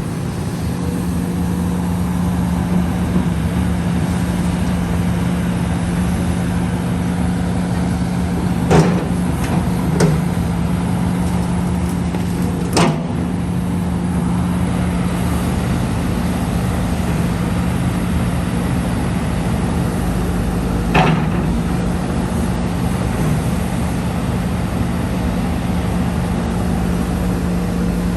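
Heavy machine engine running steadily under a constant low drone, with four sharp metallic clanks: two close together about nine and ten seconds in, one near thirteen seconds and one near twenty-one seconds.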